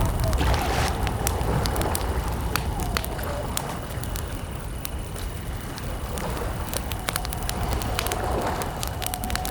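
Campfire crackling with frequent sharp pops over a steady low rumble, with faint steady high cricket chirring behind it. A wavering mid-pitched tone is heard near the start and again near the end.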